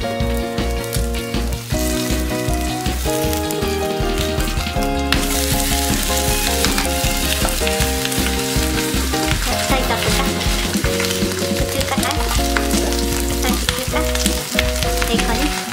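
Shredded potato and bacon pancake sizzling in oil in a frying pan. The sizzle becomes much louder about five seconds in, once the pancake has been flipped onto its bacon side and pressed with a spatula. Background music plays throughout.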